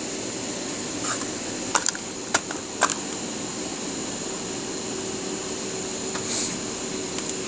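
Steady electrical hum with a faint high whine, broken by a few sharp clicks between about one and three seconds in as multimeter probes are touched to the inverter's power board.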